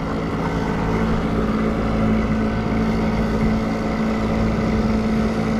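A small boat's motor running steadily at trolling speed, an even hum with no change in pitch.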